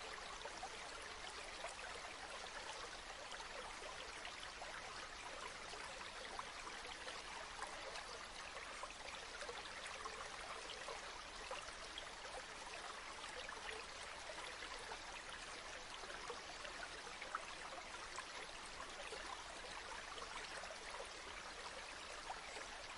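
Flowing river water: a steady, even babble of a stream running over stones.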